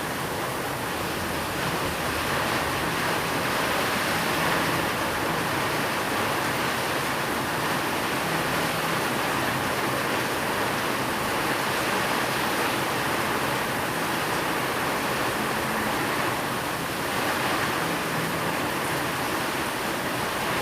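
Steady rain, an even hiss that keeps on without breaks or thunder.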